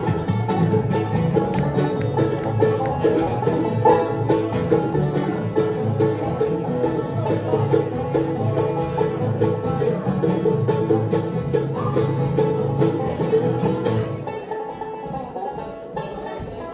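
Live bluegrass band playing, with banjo picking over acoustic guitar; the playing stops about fourteen seconds in and the sound drops to a quieter level.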